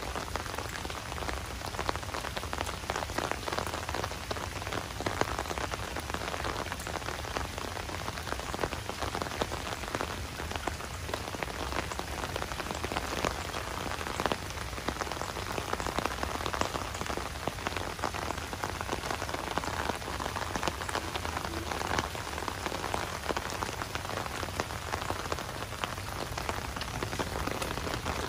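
Fairly light, steady rain, a bit heavier than a drizzle, falling on dead leaves and wet ground: an even hiss dotted with many small drop ticks.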